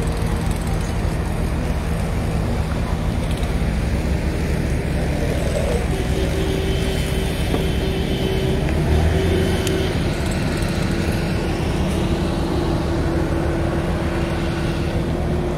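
Engine running steadily with a low rumble; a steady hum joins it about six seconds in.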